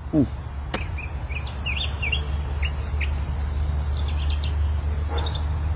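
Birds chirping in short, scattered calls over a steady low hum, with a single sharp click about three-quarters of a second in.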